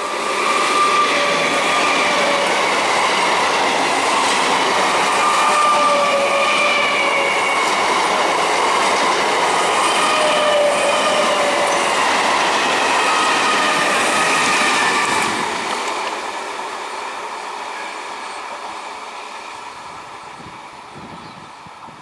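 Electric multiple unit (EMU) local train passing close at speed: a steady rush of wheels on rail, with brief squeals at several pitches coming and going. About fifteen seconds in, the noise starts to fade away as the train recedes.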